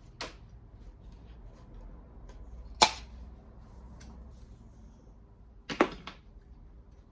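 Tin snips cutting sheet steel from a classic Mini's shock mount: a few sharp metallic snips, the loudest about three seconds in, and a short cluster of them near the end.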